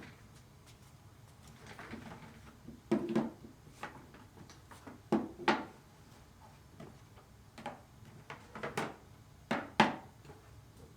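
Knocks and clunks of things being handled and set down on a hard surface, irregular and spread through the stretch, the loudest about three, five and a half and ten seconds in.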